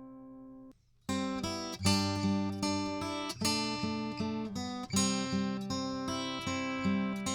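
Acoustic guitar: a held chord fades, cuts off abruptly under a second in, and after a brief gap the guitar starts again with picked notes and chords. The new passage is played back through a Warm Audio EQP-WA tube equalizer with its high-frequency boost engaged.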